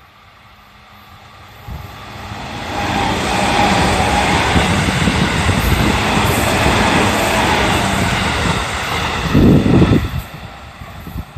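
JR Central 311 series electric multiple unit running past at a level crossing: its running noise builds over about two seconds, stays loud and steady for several seconds, then falls away near the end. A loud low buffeting comes about nine and a half seconds in.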